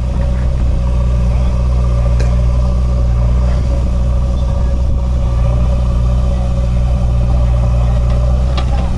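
Swaraj 744 FE tractor's three-cylinder diesel engine running steadily under load while pulling a loaded soil trolley, with a couple of brief clicks near the end.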